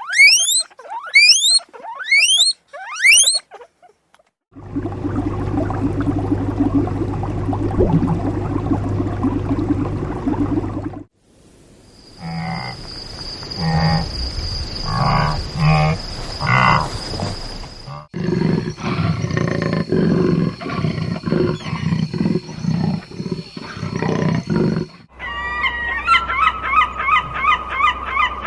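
A string of different animal calls cut one after another, ending with geese honking over and over in the last few seconds.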